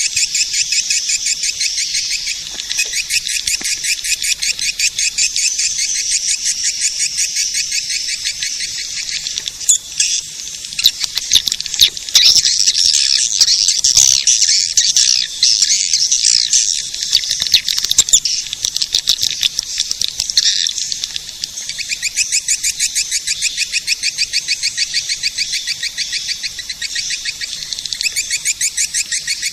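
Swiftlet lure call: a dense, rapid twittering of high-pitched swiftlet chirps repeating many times a second, busier and louder in the middle stretch. It is the calling sound played to draw swiftlets to a nesting house.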